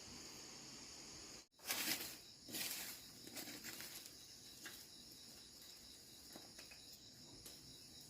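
A steady, high-pitched insect chorus in the background. It cuts out for an instant about a second and a half in, then returns along with two loud, brief bursts of noise, followed by a few faint clicks.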